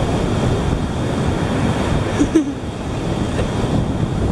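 Steady rushing noise of wind buffeting the microphone, mixed with surf washing in.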